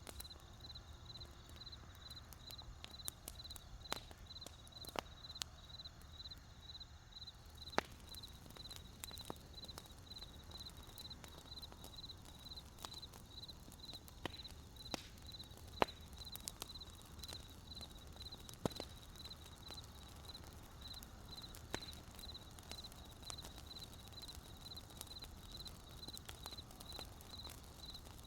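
Wood campfire crackling, with sharp irregular pops and snaps over a low steady rumble, while crickets chirp in a high, evenly pulsed rhythm throughout.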